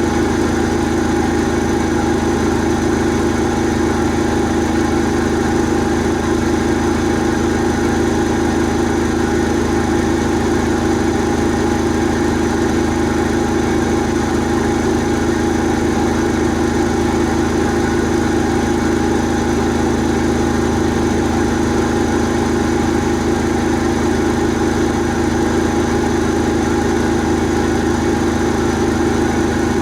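Asko Quattro W6098X washing machine in its final spin, the drum held at top speed (limited to 1600 rpm), running with a steady, even hum that does not change.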